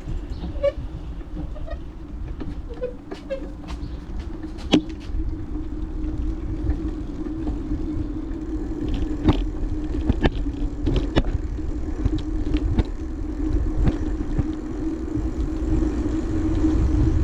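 Bicycle on the move: steady rolling rumble of the tyres with wind buffeting the action-camera microphone, and a scattering of sharp clicks and rattles from the bike over bumps.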